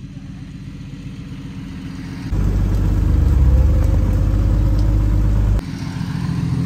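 Jeep Grand Cherokee engine running on a trail at low speed, with a steady low drone. It gets suddenly louder about two seconds in, rising slightly in pitch, then drops back abruptly near the end.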